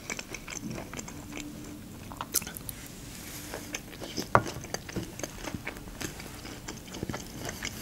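Close-miked chewing of a mouthful of canned sweet corn: quiet, irregular wet clicks and soft crunches, with a few sharper ones.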